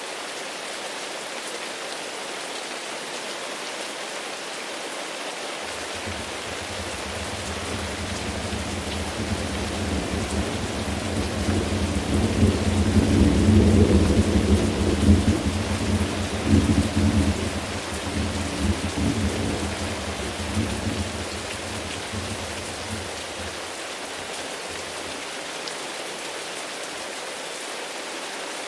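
Steady rain falling, with a long roll of thunder that swells from about six seconds in, is loudest near the middle and rumbles away again by about twenty-three seconds.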